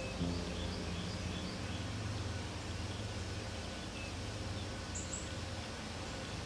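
Small songbirds chirping: a quick series of short chirps in the first second or so and a high double note about five seconds in, over a steady low background rumble.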